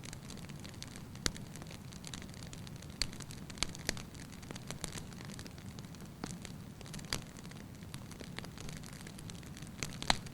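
Wood fire in a fireplace crackling: a steady low rumble of burning logs with irregular sharp pops and snaps, a few of them louder.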